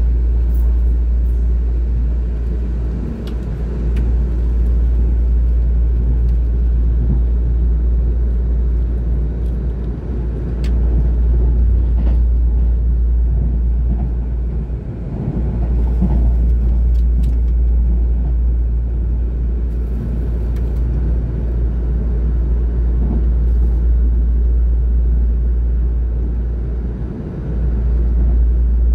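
Steady low rumble of a moving passenger train heard from inside the carriage, easing briefly a few times.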